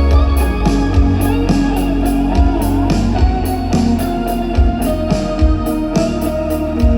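Live band playing loudly in an instrumental passage: guitars over held keyboard chords, bass and regular drum hits, as heard by a phone in the crowd.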